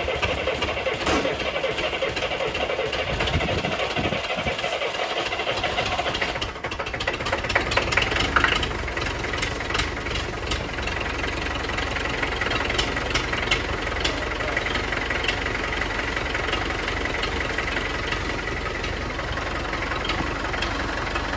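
International A414 tractor engine running, its note changing with a brief dip about six seconds in, then settling into a steady run.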